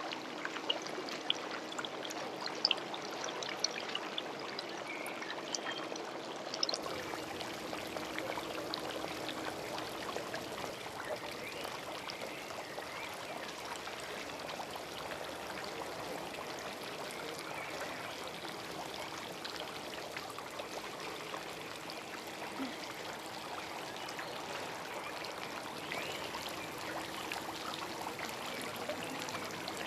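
Steady rushing noise of running water, with scattered small clicks during the first few seconds and a faint steady hum underneath. The background changes abruptly about seven seconds in.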